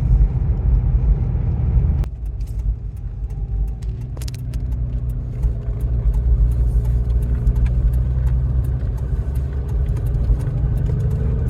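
Motor vehicle driving on the road: a steady low engine and road rumble, easing down a little about two seconds in, with scattered light rattling clicks.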